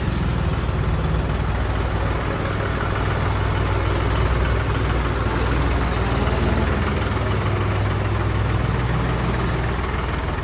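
Mahindra 265 tractor's three-cylinder diesel engine running steadily at idle.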